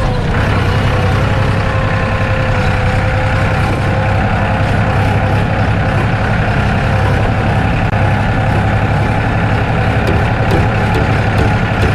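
Homemade mini tractor's engine running steadily, a low, even drone.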